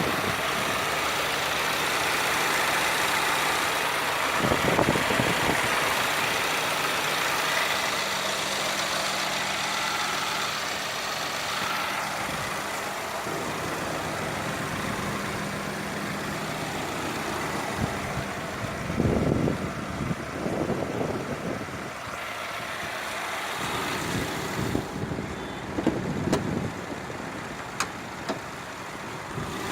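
A 2019 Subaru Ascent's 2.4-litre turbocharged four-cylinder idling with a steady hiss, its low hum fading about halfway through. A few low thumps come about five seconds in, around twenty seconds in and near the end.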